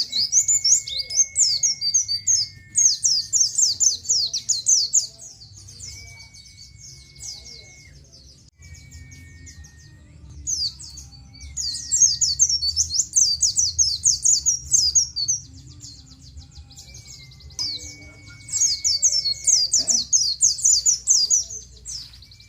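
Pleci (white-eye) singing fast, high 'ciet ciet' chattering phrases, in runs of a few seconds with short pauses between, and some long, level whistles lower in pitch in the gaps.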